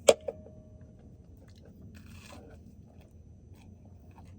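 A bite into a toasted grilled cheese sandwich, giving a brief crunch about two seconds in. A sharp knock comes at the very start.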